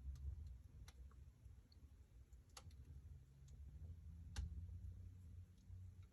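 Wood fire burning in a fireplace, faint, with scattered crackles and sharp pops over a low rumble. The three loudest pops come about one, two and a half, and four and a half seconds in.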